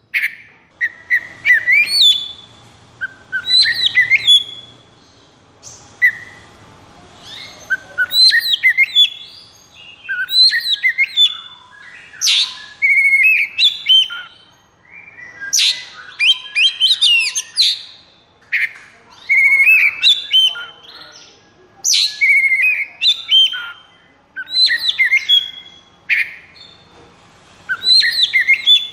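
Oriental magpie-robin (kacer) singing in the fast, aggressive 'konslet' fighting style: varied whistled phrases and rapid trills, in loud bursts about every two seconds with short pauses between them.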